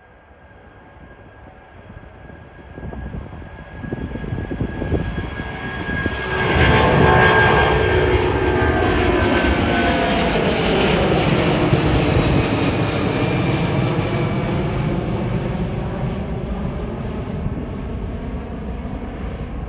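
Airbus A330 twin-engine jetliner at takeoff thrust passing by: the jet engine noise builds up, peaks about seven seconds in, then fades slowly as the whine drops in pitch.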